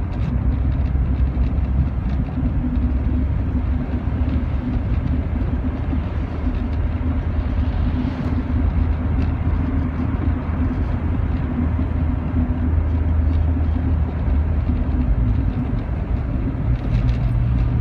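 Rover 45 engine running steadily as heard inside the car's cabin, with road noise. The engine note steps up in pitch about three-quarters of the way through. The engine is dropping a cylinder.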